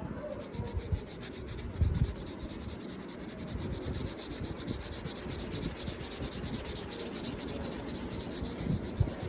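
Folded tissue paper rubbed quickly back and forth over coloured drawing paper, blending the green shades: a fast, even run of scratchy rubbing strokes, with a few soft knocks of the hand on the table.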